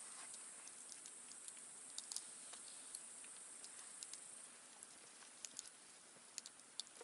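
Wood campfire crackling softly: scattered sharp pops and snaps of burning wood, a few each second, over a faint steady high hiss that fades out about two-thirds of the way through.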